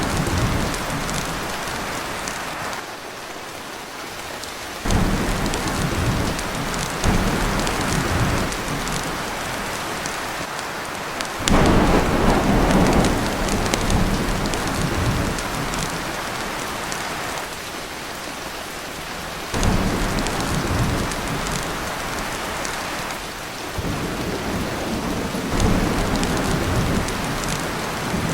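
Heavy rain pouring steadily on a tin roof, with several rolls of thunder that rise suddenly and die away, the loudest about twelve seconds in.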